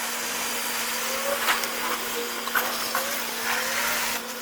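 Automated car wash running: a steady hiss of spraying water over a constant machine hum, with a few short knocks.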